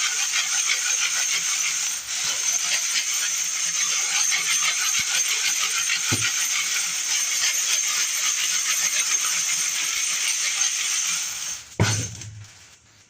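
Brass cartridge cases being shaken in a wire sifting screen to knock out the corncob tumbling media: a dense, steady metallic rattle that stops near the end with a single thump.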